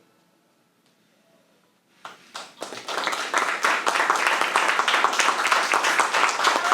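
Brief near silence, then audience applause breaking out about two seconds in and quickly building to steady clapping at the close of a piece.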